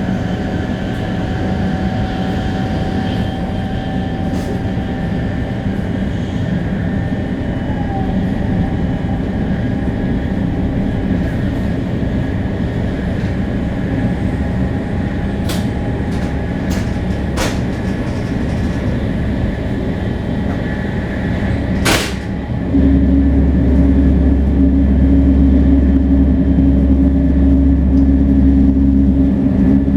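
Running sound of a Shinkansen 500 series train with Toshiba GTO-VVVF traction, travelling between stations: a steady rumble from the wheels and running gear, with faint steady tones and a few sharp clicks. About 23 seconds in, the noise suddenly jumps louder and deeper.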